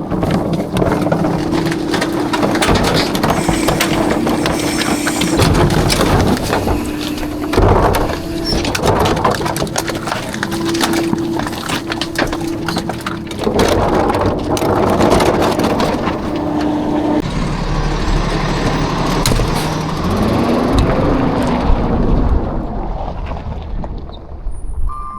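Rear-loader garbage truck working a dumpster: engine and hydraulics running with a steady hum under continuous clanking and rattling of metal and falling trash. About two-thirds of the way through the hum drops to a deeper rumble with a short pitch glide as the load changes.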